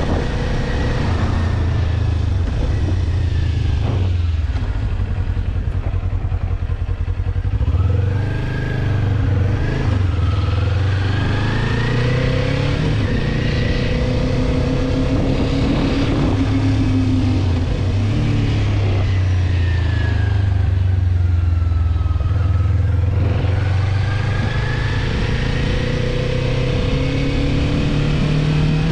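Kawasaki 400 naked bike's parallel-twin engine running under way at road speed. Its note steps in pitch about four seconds in and again near eight seconds, where the loudness briefly dips, as on gear changes.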